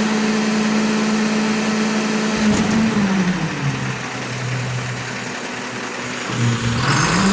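Garbage truck engine running steadily, then dropping to a lower idle about three seconds in and revving back up near the end.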